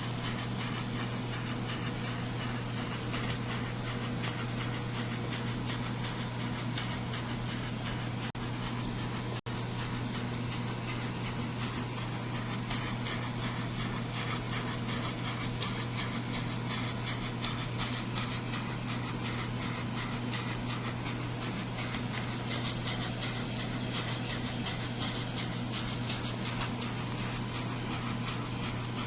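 Retrol scale model steam engine running steadily: a fast, even rasping chuff of steam from its single vertical cylinder as the flywheel spins, over a constant low hum.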